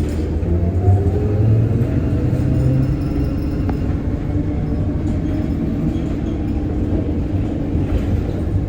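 A YuMZ T-2 trolleybus under way, heard from inside: a steady low rumble from the body and running gear, with the electric traction motor's whine gliding slowly up and down in pitch as the speed changes.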